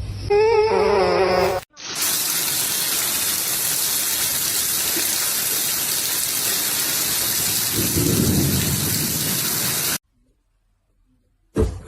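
Steady rushing hiss of heavy rain lasting about eight seconds, ending abruptly. A brief wavering cry comes before it.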